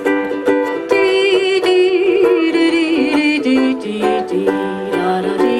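Live ukulele music, plucked notes in a steady rhythm, with a wavering held note over it from about one to three seconds in.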